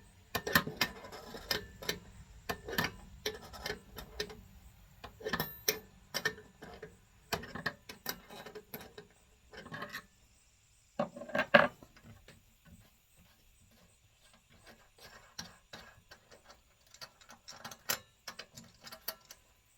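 Irregular metal clicks and knocks of a 9/16 wrench working the generator nut loose on a Coleman 523 two-burner stove, with the loudest clatter about eleven seconds in and fainter clicks after it.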